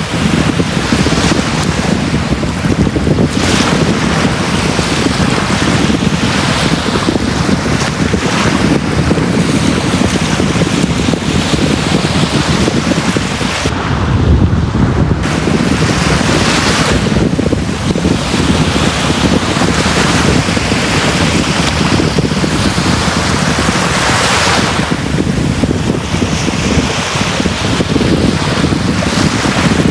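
Sea waves breaking and washing up a beach, the surf swelling every couple of seconds, over a steady low rumble of wind on the microphone. About halfway through the hiss briefly drops away under a low thump.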